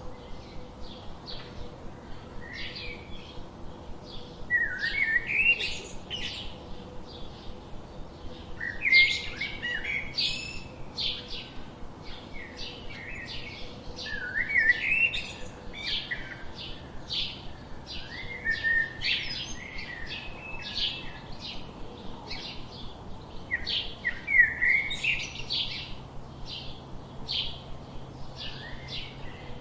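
Several songbirds chirping and singing, with short bright phrases and rising trills repeating every second or two, over a faint steady background.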